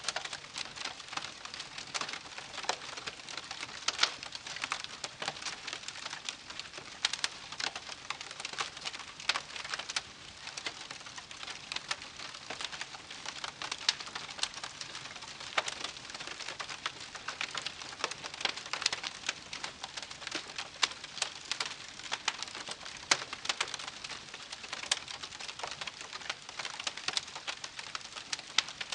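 Wood campfire burning with dense, irregular crackling and popping, many sharp snaps a second over a soft steady hiss.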